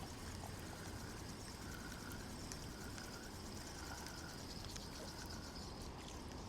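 Quiet outdoor ambience: a faint steady low rumble with a soft call repeating about every two-thirds of a second.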